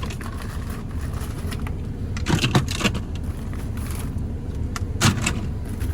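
Steady low rumble of an idling vehicle engine, with a few short clicks and scrapes about halfway through and again near the end.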